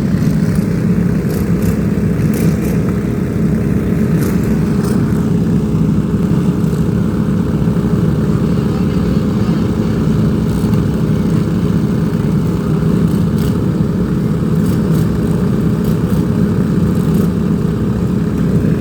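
A steady engine drone holding the same pitch throughout, with a low hum.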